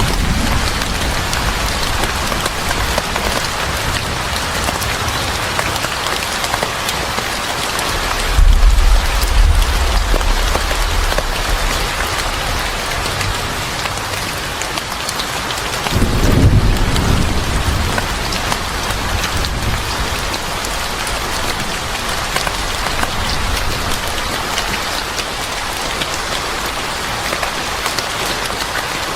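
Steady heavy rain falling on a surface, with two low rumbles of thunder, one about 8 seconds in and a stronger one about 16 seconds in.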